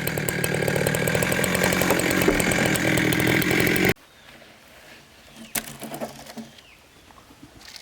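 Engine-driven power saw running hard as it cuts through timber. It cuts off abruptly about four seconds in, leaving quiet handling rustle and one sharp knock.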